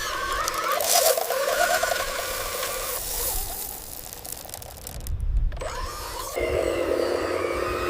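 Small electric motors of radio-controlled construction models whining as the machines work. There is a brief break about five seconds in, then a steady whine resumes.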